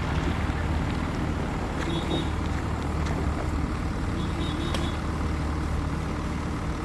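Heavy diesel road-construction machinery running steadily, with a few sharp clicks and knocks and two brief faint high beeps.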